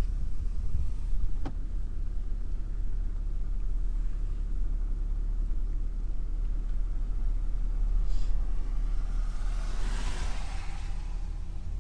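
Car driving, its steady low road and engine rumble heard from inside the cabin. Near the end a hiss swells up and fades away.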